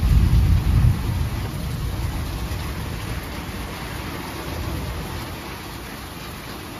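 Steady rain with a low rumble of thunder, loudest in the first second and then slowly dying away.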